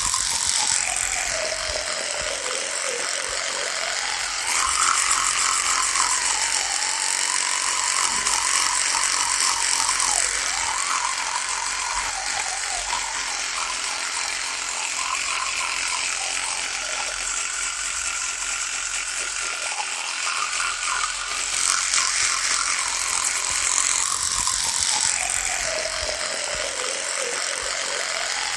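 Electric toothbrush running with a continuous buzz. Its pitch sags at the start, wavers through the middle and sags again near the end.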